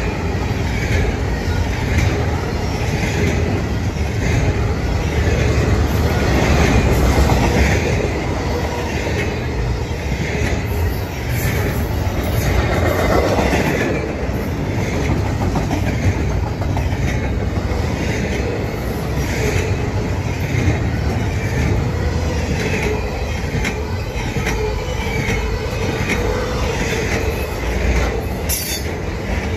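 Double-stack intermodal freight cars rolling past at speed: a steady rumble of steel wheels on rail with a regular clickety-clack about once a second. A faint, wavering wheel squeal joins in the second half.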